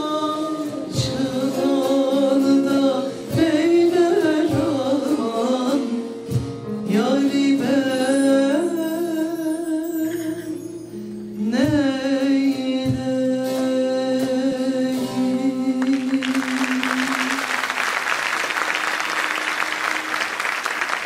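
Turkish folk song sung by a choir with a saz ensemble, the ornamented melody over plucked strings and regular strikes, ending about three-quarters of the way through. Audience applause follows to the end.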